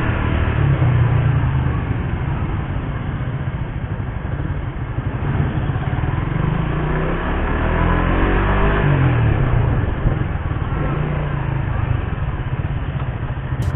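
Suzuki GSX-R150's single-cylinder engine running under way, its revs climbing and then dropping again about halfway through.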